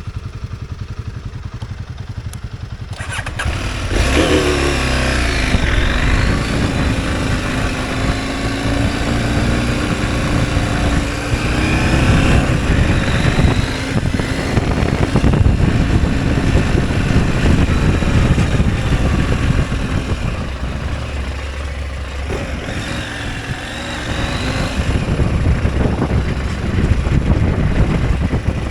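Motorcycle engine running low and steady for a few seconds, then opening up at about three seconds in and accelerating while riding. Its pitch rises and drops again and again as it works through the gears.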